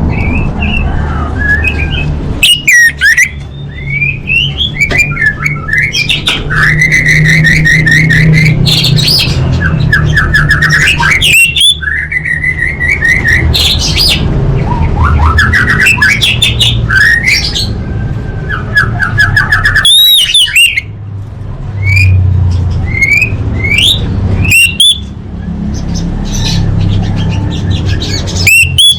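Female orange-headed thrush calling: a busy run of chirps, rapid trills and short rising and falling whistles, with a steady low hum underneath and a few brief breaks in the sound.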